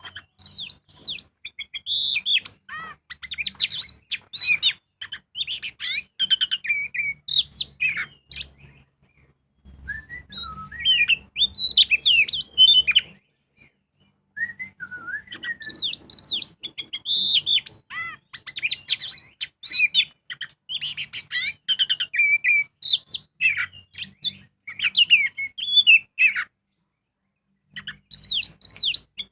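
Oriental magpie-robin (kacer) in full song: loud, rapid runs of varied whistles, trills and chatter, delivered in bouts of several seconds with brief pauses between them.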